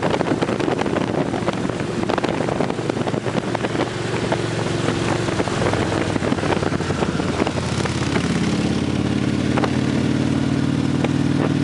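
Victory police motorcycle V-twin engines running. The first part is rough and noisy with many short clicks; about two-thirds of the way through it settles into a steady, even engine note.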